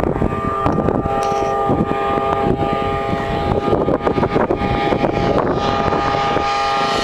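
Triumph Daytona 675's inline-three engine through a Jardine exhaust, held at steady high revs as the bike approaches at speed, with wind buffeting the microphone.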